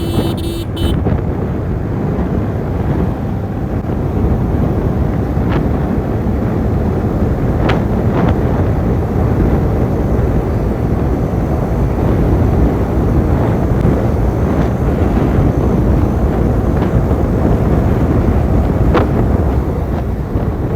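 TVS Jupiter 125 scooter's single-cylinder engine running steadily at high speed on a top-speed run, heavily overlaid by wind buffeting the microphone. The rider describes it as running smoothly.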